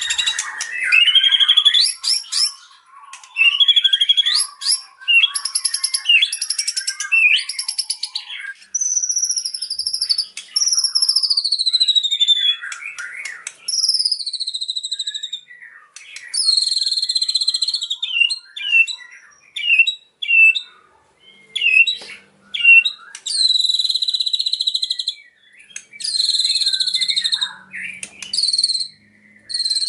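White-rumped shama (murai batu) singing a varied, fast-changing song of trills, buzzy notes and whistles, with long falling whistled slurs about a third of the way through and short pauses between phrases.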